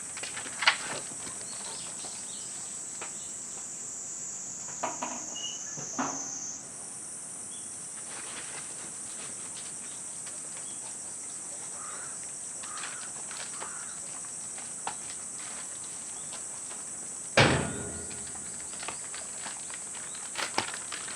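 Steady high-pitched insect-like drone, with scattered light taps and clicks and one heavier thump about seventeen seconds in.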